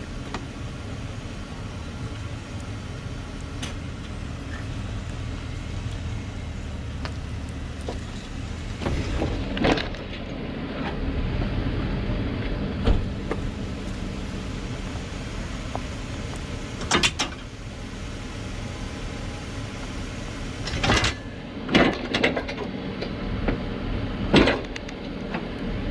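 Pickup truck engine running low and steady as the truck creeps forward onto a Minute Mount snow plow, with sharp metal clunks about ten seconds in, again near seventeen seconds and several close together near the end as the mount pins go in and the plow is rocked into place.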